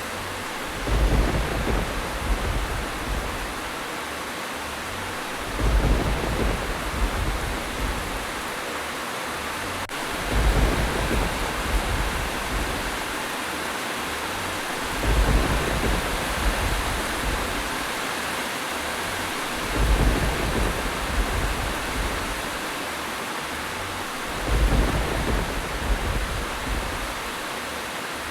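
Steady heavy rain with a low rumble of thunder rising about every five seconds, six times at evenly spaced intervals.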